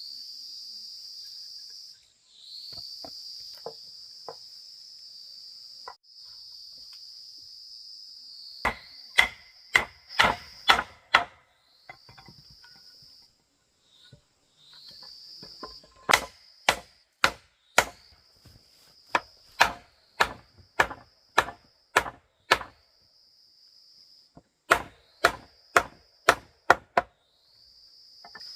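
Runs of sharp strikes on wood, each run four to nine quick blows, as timber is chopped or hammered with a hand tool; these are the loudest sound. Behind them, insects sing in a steady high buzz that stops and starts every couple of seconds.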